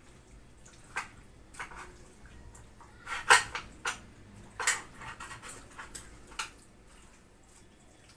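Cookware and utensils being handled: a string of short knocks and clinks, with the two loudest strikes near the middle.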